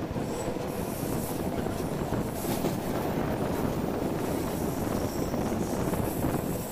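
Moving passenger train heard from an open carriage window: steady rumble of steel wheels running on the rails.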